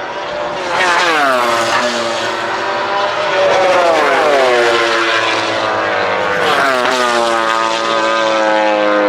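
MotoGP race bikes passing one after another at speed, three in turn, each engine's high-pitched note sweeping down as it goes by.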